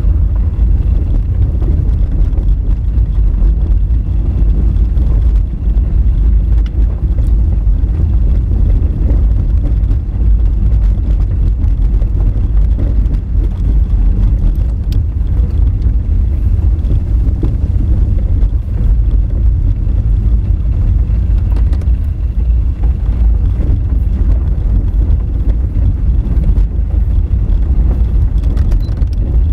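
Honda Fit driving on a rough gravel forest road: a steady low rumble of tyres and suspension over the dirt, with scattered faint clicks of stones.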